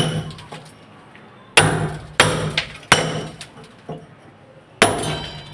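Hammer blows: a series of sharp strikes at uneven intervals, each ringing briefly.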